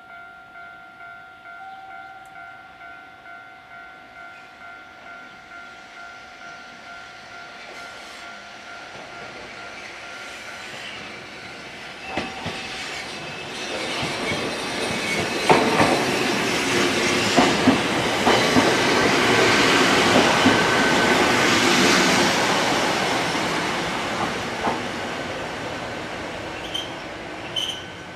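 A railway level-crossing warning bell rings at about two strikes a second and stops about ten seconds in. Then a Sangi Railway 101 series electric train (ex-Seibu 401 series) pulls in, its wheels clacking over rail joints, loudest a little past the middle. It fades as it slows, with brief squeals near the end.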